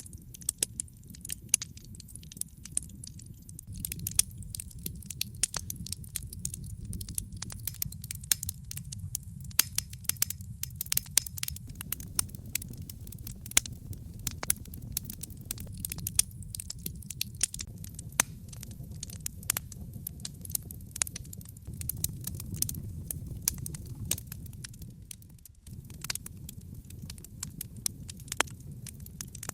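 Wood fire burning in a fireplace: logs crackling and popping in quick, irregular snaps over a low, steady rumble of the flames.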